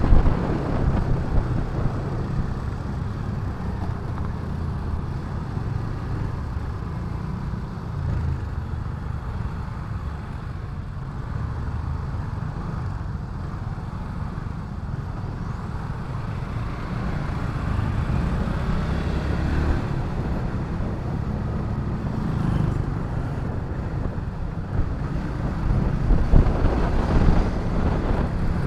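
Motorcycle engine running at a steady cruise while riding, a constant low rumble mixed with road noise.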